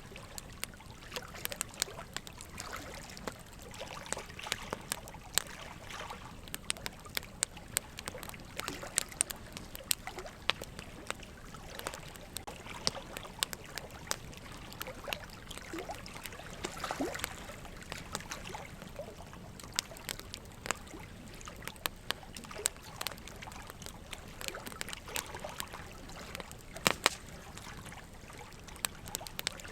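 Wood fire crackling in a fire pit: irregular sharp pops and snaps over a soft steady hiss, with one louder pop near the end.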